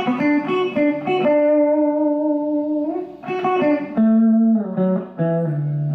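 Electric guitar playing a country lead lick in single picked notes: a few quick notes, one held for about a second and a half, then a run stepping down to a low note that rings on near the end.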